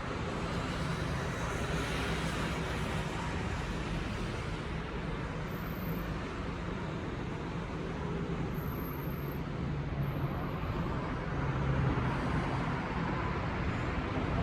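Steady low rumble of outdoor background noise, typical of road traffic.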